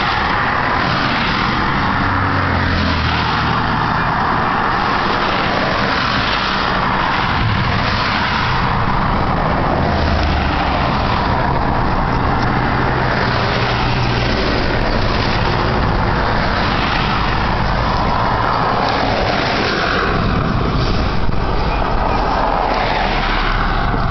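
Steady road and engine noise from inside a moving car, with a low hum that shifts pitch now and then.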